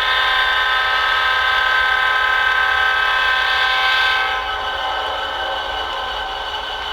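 A train horn blowing one long chord of several steady pitches, held throughout and easing slightly in loudness about four seconds in.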